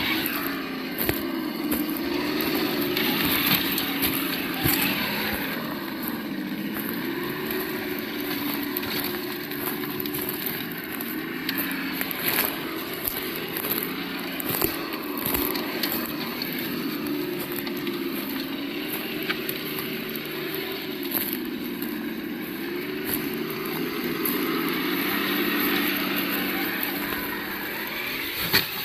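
Absima Yucatan 1:8 RC crawler's sound module playing a simulated engine note through its small speaker, its pitch rising and falling over and over as the throttle changes. Scattered clicks and knocks run through it.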